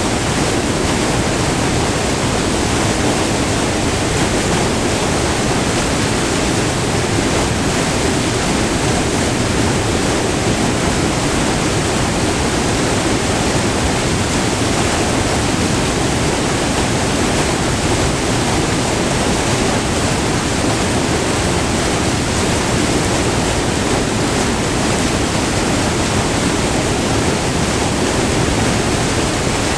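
Short multi-tiered waterfall, white water rushing over rock heard up close, a loud, steady, even wash of water.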